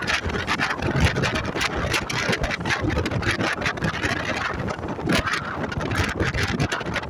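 Wind buffeting the microphone over a running motorcycle engine while riding, with irregular gusty crackles throughout.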